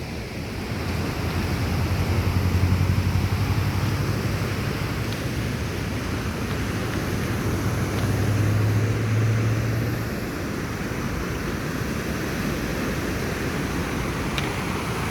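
Steady rush of surf and wind, with the low hum of an engine passing that dies away about ten seconds in.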